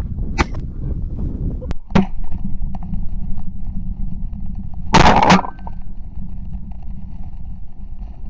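Shotgun shots: a few sharp reports in the first two seconds, then a louder, closer burst about five seconds in, over a steady low rumble.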